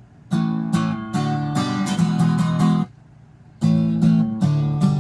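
Acoustic guitar strumming the song's intro chords in two short phrases, each stopping cleanly, with a brief gap of under a second about halfway through.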